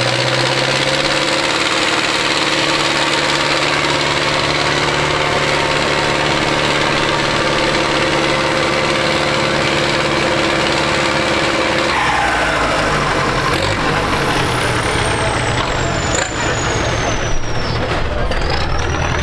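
Tractor diesel engine running steadily. About two-thirds of the way through the sound changes: a whine falls in pitch and a deeper, fuller engine rumble takes over, with a few sharp knocks near the end.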